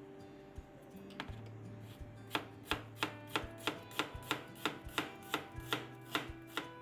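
Knife chopping on a cutting board: a steady run of about fourteen even strokes, roughly three a second, starting about two seconds in.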